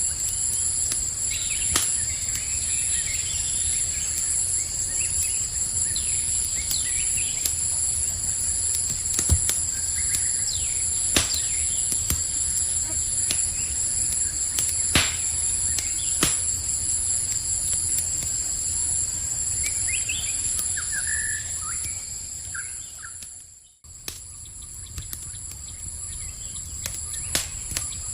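Campfire crackling with scattered sharp pops, over a steady high trilling of night insects. A few bird chirps come about twenty seconds in, and the whole sound briefly fades out and back in soon after.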